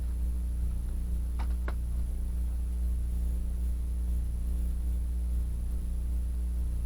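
Steady low hum, with two faint clicks close together about a second and a half in.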